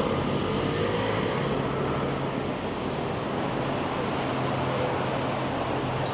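City road traffic: vehicles passing with a steady low engine hum over a constant wash of traffic noise.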